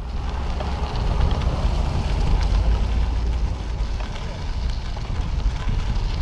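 Heavy wind buffeting the microphone: a steady low rumble with a crackly hiss over it, as when filming on the move in a stiff breeze.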